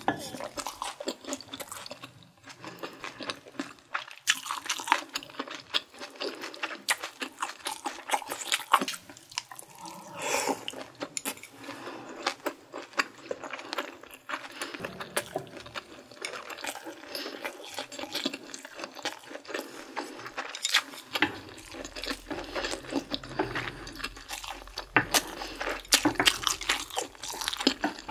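Close-miked eating: wet chewing of bulgogi beef, with a dense run of small moist clicks and squishes.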